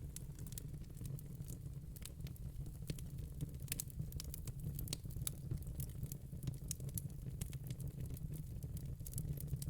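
Wood fire in a fire pit crackling, with frequent irregular snaps and pops over a steady low rumble.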